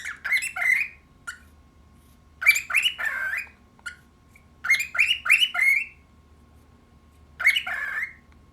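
Cockatiel talking: four bursts of quick chattering syllables, each lasting about a second, with short pauses between.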